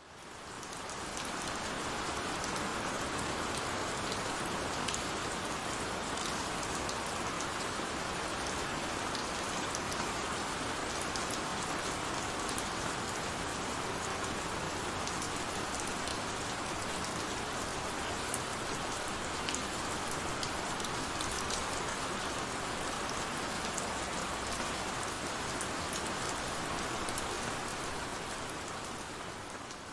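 Heavy rain falling steadily: a dense hiss with scattered sharp ticks of single drops. It fades in over the first second and begins to fade out near the end.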